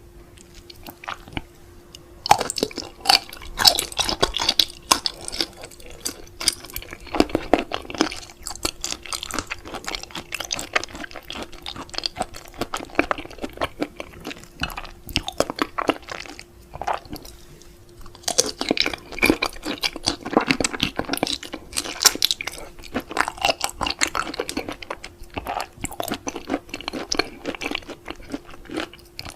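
Close-miked mukbang eating sounds: wet chewing, smacking and crunching of seafood. The chewing comes in two dense bouts with a short lull about halfway, over a faint steady hum.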